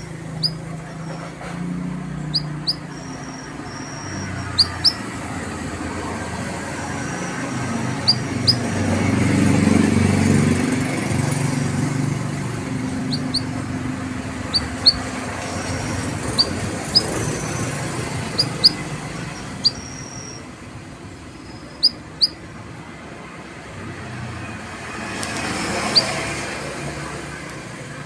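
Canary giving short, sharp 'cuit cuit' chirps, mostly in quick pairs every second or two, with brief high whistled notes between, the calls of a canary in overly high breeding condition (over birahi). Passing road traffic rumbles underneath, swelling twice.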